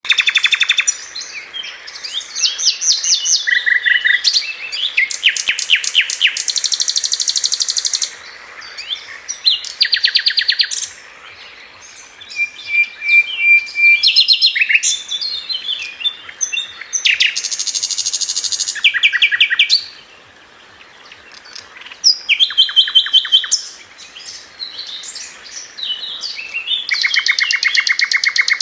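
A male bird singing to attract females: repeated bouts of fast, high-pitched trills, each lasting one to two seconds, with short pauses between them.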